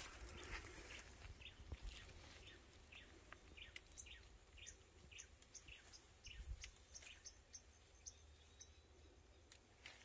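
Faint bird calls over near silence: a run of short, falling chirps about two a second, with a thinner series of higher ticks through the middle. There are a couple of soft low thumps, the strongest about six and a half seconds in.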